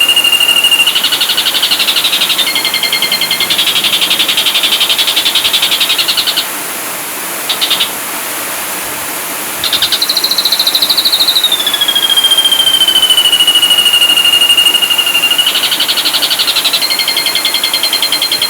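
Ashy drongo singing: long clear whistles, one sliding slowly down in pitch, alternate with fast buzzy rattling trills. A short quieter gap in the middle holds one brief burst.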